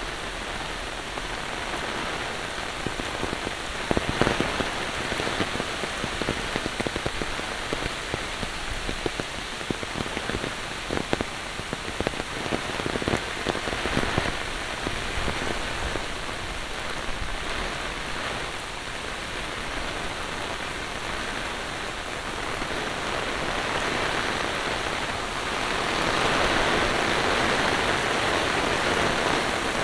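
Monsoon rain falling steadily, with many sharp drop hits in the first half, becoming heavier and louder near the end.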